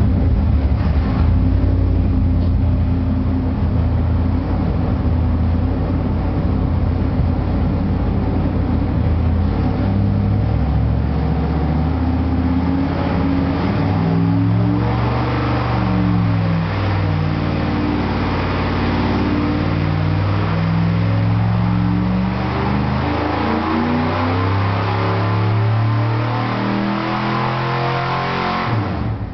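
Car engine running under load on a chassis dynamometer. Its pitch holds steady for the first several seconds, then shifts up and down through the rest.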